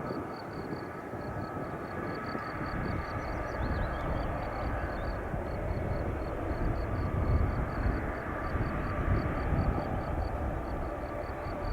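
Jet engines of a Boeing C-17A Globemaster III, its four Pratt & Whitney F117 turbofans, running as a steady rumble with a faint whine, growing somewhat louder in the middle. A high chirp repeats about four times a second throughout.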